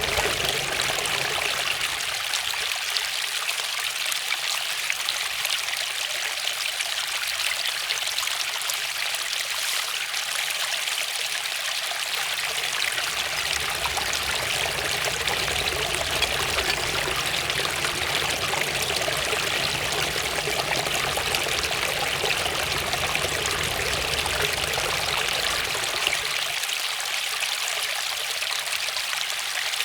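Waterfall splashing and rushing steadily, a continuous hiss of falling water.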